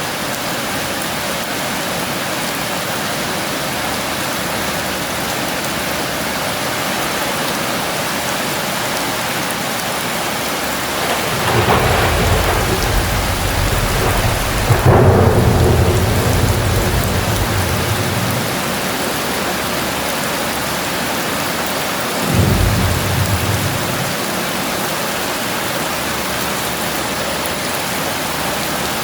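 Heavy rain pouring steadily, with thunder rumbling in twice: a long deep roll from about eleven seconds in that peaks near fifteen seconds, and a shorter clap around twenty-two seconds.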